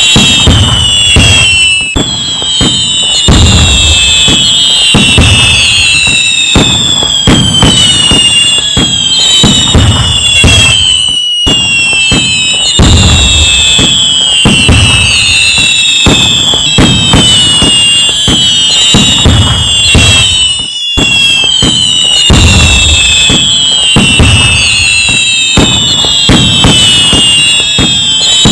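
Loud fireworks: a continuous barrage of bangs and crackling, with many overlapping whistling shells whose whistles fall in pitch. It breaks off for an instant twice, about eleven and twenty-one seconds in.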